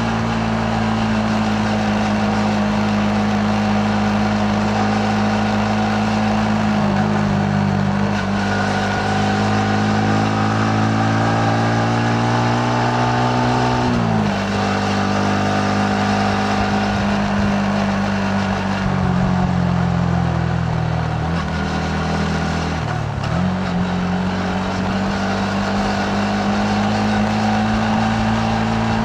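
Yamaha MT-15's single-cylinder engine pulling the bike along, heard from the saddle over wind noise. The engine note climbs steadily for several seconds, drops sharply about halfway through, sags lower for a few seconds, then picks up again and holds steady to the end.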